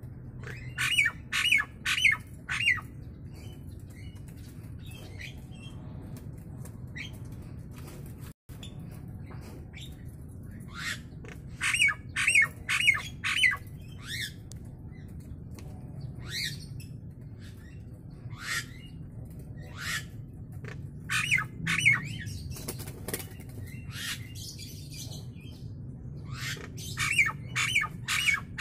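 Nias hill myna giving loud, sharp calls in quick bursts of four or five, with single calls between the bursts.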